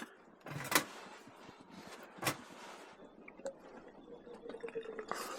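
Wood being added to a campfire: two sharp knocks of wood about a second and a half apart, then lighter clicks, over the steady crackle and hiss of the fire. A faint thin tone sounds near the end.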